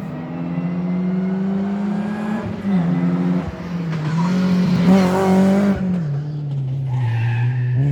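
Historic rally car's engine at full throttle on a stage, pulling up through the revs and dropping sharply at gear changes about two and a half and six seconds in. It is loudest about five seconds in as the car passes.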